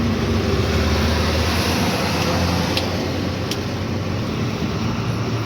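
Loaded truck's engine running steadily as it drives on, a low hum with road and traffic noise, and two faint clicks near the middle.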